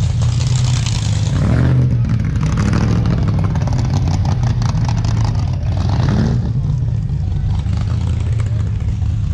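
A car engine running steadily at idle, a loud, deep rumble.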